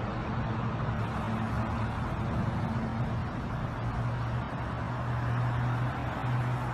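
Steady low hum of a running vehicle engine over street noise.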